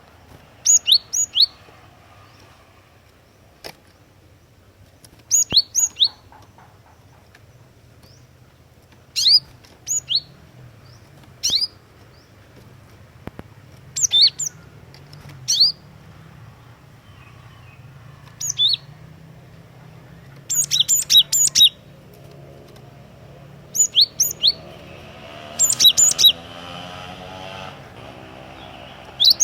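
Cinereous tit (glatik watu) calling in short, sharp bursts of two to four high notes, repeated every few seconds and coming faster near the end.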